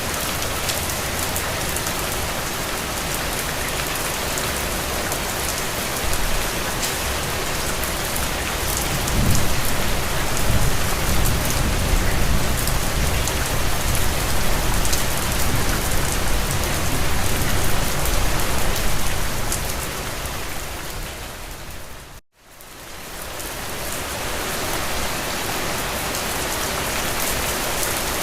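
Steady rain falling, an even hiss of drops. About a third of the way in a low rumble swells beneath it for roughly ten seconds, and about three-quarters through the rain fades out to a moment of silence and fades back in.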